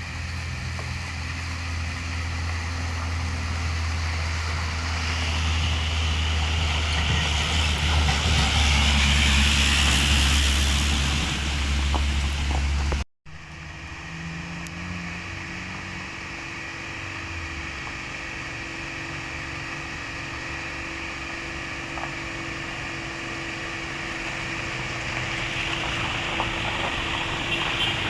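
Hino container truck's diesel engine working hard on a steep climb, growing louder over the first twelve seconds with a rising hiss. It breaks off suddenly about halfway and is followed by a quieter, steady engine drone with a held hum.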